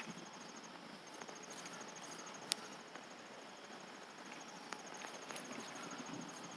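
Crickets chirping in a fast, even, high-pitched pulse, faint against the night air. A few soft clicks come through, and one sharp click about two and a half seconds in.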